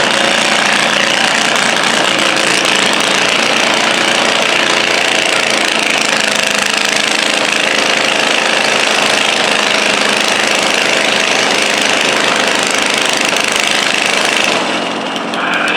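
Modified pulling garden tractor's engine running loud and hard under load, dragging a stoneboat. The sound drops off near the end.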